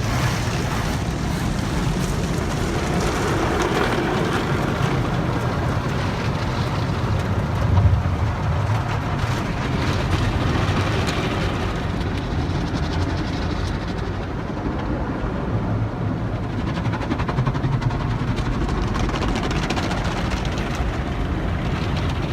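Automatic drive-through tunnel car wash heard from inside the car's cabin: a steady low rumble and the rushing hiss of water and wash machinery working over the car, with the hiss easing about two-thirds of the way through.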